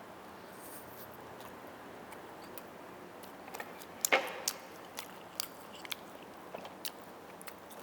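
A person biting into and chewing roast chicken close to the microphone. After about three seconds of low room hiss comes a sharp bite about four seconds in, then scattered clicks of chewing.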